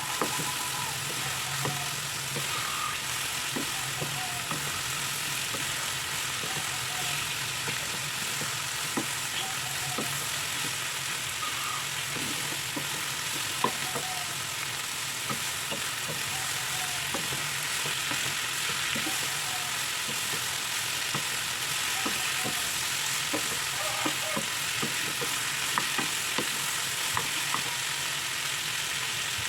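Food sizzling steadily in a frying pan as it is stir-fried, with irregular clicks and scrapes of a spatula against the pan.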